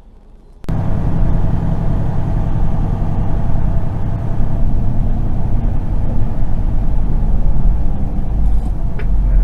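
A vehicle's engine and road noise starting abruptly about a second in, then a steady, loud, low rumble.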